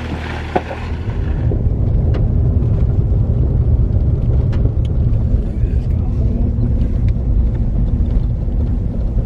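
Steady road and engine rumble heard from inside a moving vehicle's cabin, growing louder about a second and a half in and then holding.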